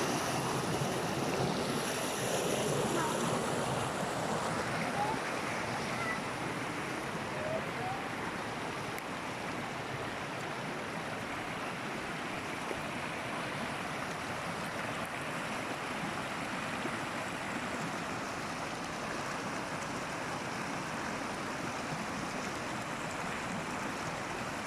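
Forest waterfall rushing steadily, a constant wash of falling water, a little louder in the first few seconds.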